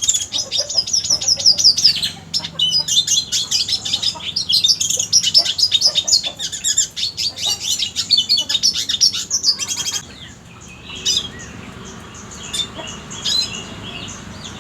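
Red siskin singing: a fast, unbroken high twittering song that breaks off about ten seconds in, giving way to scattered short chirps at a lower level.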